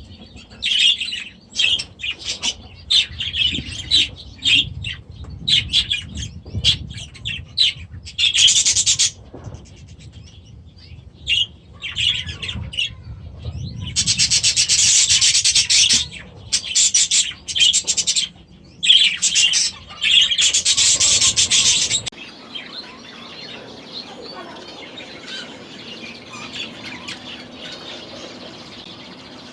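A flock of budgies chirping and chattering in rapid bursts, some loud and shrill. About three-quarters of the way through, the calling drops away to a quieter, steady background with faint chatter.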